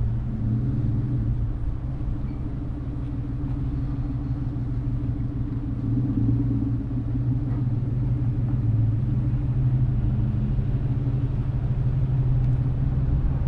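A car driving along at a steady pace, heard from the car itself: a low, steady engine hum over rumbling road noise.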